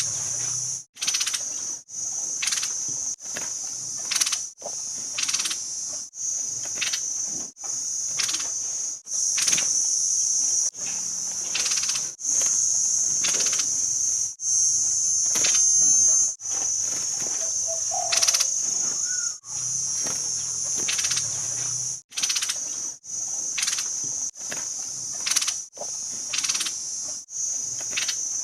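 Training recording of a caged songbird: short, sharp calls repeat about once a second over a steady, high-pitched, insect-like buzz.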